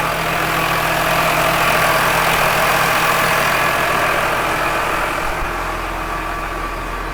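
Massey Ferguson 6490 tractor's six-cylinder diesel engine idling steadily, a little louder in the first few seconds and then easing off.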